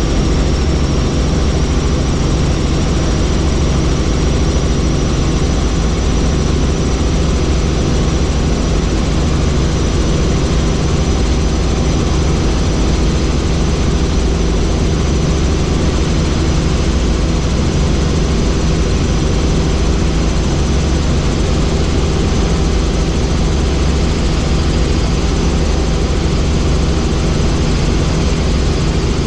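Helicopter in steady flight: rotor and turbine engine running loudly and evenly, a deep rotor rumble under a thin, high turbine whine.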